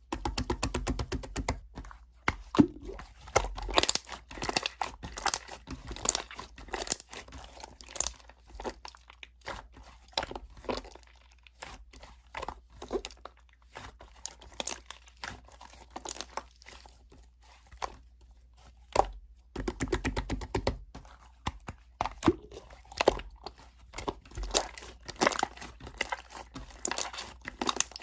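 Slime being mixed and kneaded by hand, giving a run of sticky clicks, pops and crackles. Rapid trains of clicks come near the start and again about two-thirds of the way through.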